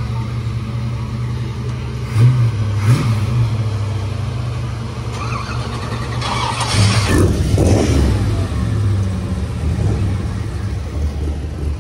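Classic car engine idling steadily, blipped twice briefly about two and three seconds in, then revved up and let back down around seven seconds in.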